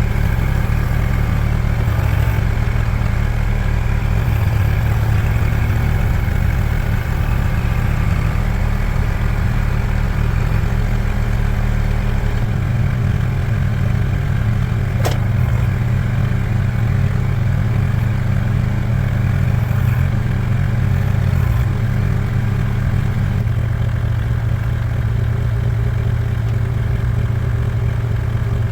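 An engine running steadily, its low hum stepping to a different speed twice, with a single sharp click partway through.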